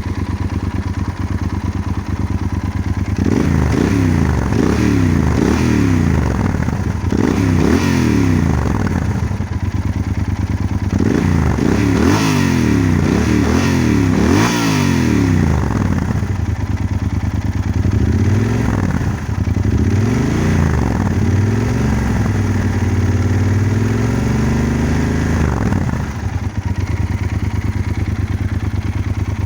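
Yamaha Super Ténéré's parallel-twin engine heard through a modified Akrapovic exhaust: idling, then revved in a run of quick blips that rise and fall, later in slower, longer revs, and settling back to idle near the end.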